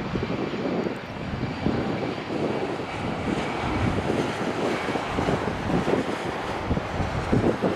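Boeing 737-800 airliner's CFM56 jet engines on approach to land: a steady jet noise with a faint high whine over an uneven low rumble.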